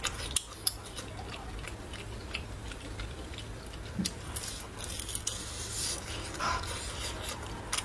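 Close-up biting and chewing of a pan-fried pastry filled with chives, egg and glass noodles, its crust crisp: scattered crackly crunches, with a sharp bite about four seconds in and soft chewing in between.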